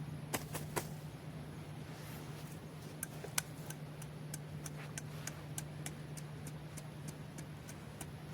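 Sharp clicks over a steady low hum: a few scattered ones at first, then from about halfway in a regular ticking at roughly three a second.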